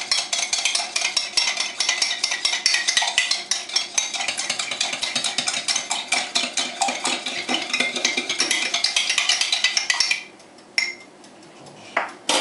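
A fork beating eggs in a container: a fast, steady run of clicking and scraping strokes that stops about ten seconds in, followed by a couple of single knocks.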